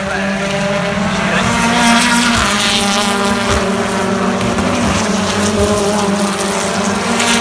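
British Touring Car Championship race cars running at full race pace, with a steady high-revving engine note and a few short cracks.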